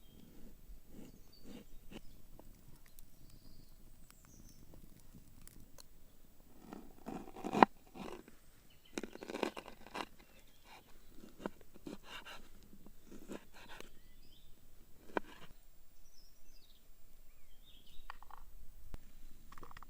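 Scattered close handling sounds from hand food preparation: rustles, taps and one sharp knock about seven and a half seconds in. Birds chirp faintly in the background now and then.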